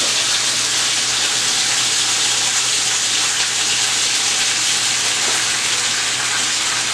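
Floured chicken pieces frying in hot olive oil in a cast iron skillet: a steady, loud sizzle, with sliced mushrooms being tipped into the pan from a bowl.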